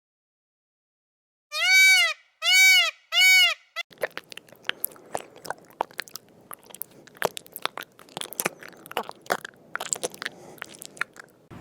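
A goose honks three times in quick succession, each call rising and falling in pitch. About four seconds in, an animal starts chewing close by: a run of crisp, irregular crunches.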